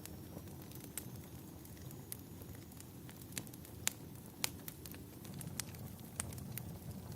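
Wood fire crackling in a fireplace: scattered sharp pops and snaps, the loudest a little before four seconds in and again about half a second later, over a steady low rumble of the burning logs.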